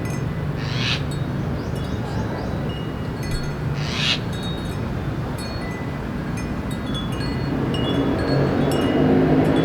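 Small wind chime ringing in the breeze, its high metal tones struck at irregular moments, over a steady low hum of city traffic that grows louder near the end.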